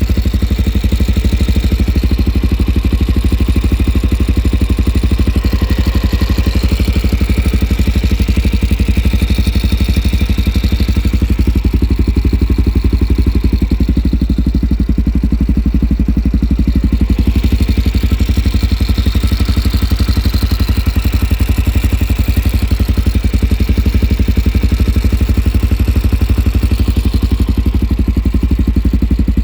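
Suzuki DR-Z400's single-cylinder four-stroke engine running steadily at idle, with an engine noise that worries its owner, who is asking for help with it.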